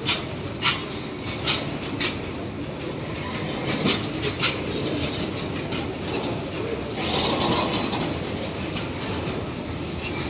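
Freight train of open wagons rolling past with a steady rumble and sharp wheel clacks over rail joints, most of them in the first half. About seven seconds in, a high wheel squeal rises for a second or so.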